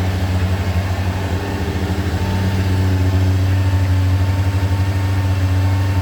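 1994 Kawasaki ZX-9R B1's inline-four engine idling steadily while warming up from a cold start. Its note shifts slightly and gets a little louder about two seconds in.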